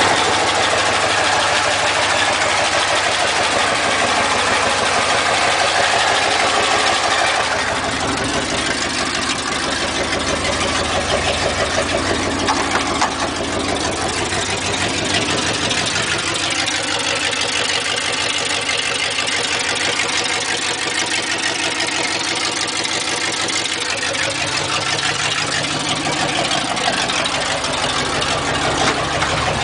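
Fuel-injected 5.0 V8 swapped into a 1965 Ford Mustang, running on its first startup after the swap. It runs a little louder for the first seven seconds or so, then settles to a slightly quieter, steady idle.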